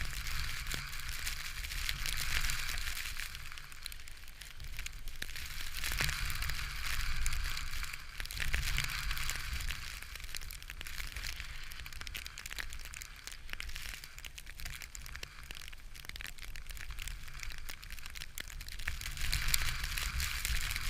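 Strong wind buffeting the microphone: a low rumble under a hiss that swells and eases in gusts every few seconds.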